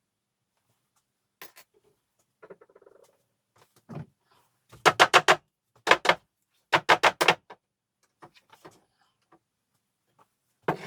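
Hard, sharp knocks in three quick clusters, about four, then two, then four or five strikes, from about five seconds in, with a few fainter ticks and a light rustle before them.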